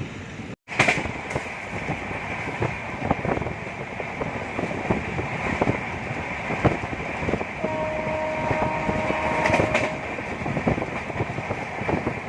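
Indian Railways express coach running at speed, heard from inside, with wheels knocking over rail joints in an irregular clickety-clack. A horn sounds steadily for about two seconds in the second half.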